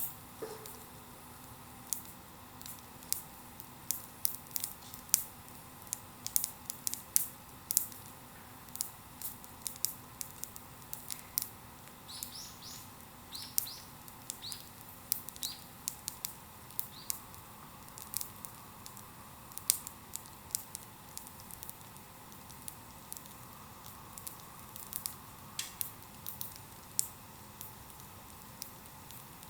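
Bonfire crackling, with irregular sharp pops and snaps throughout. A few short high chirps come in the middle.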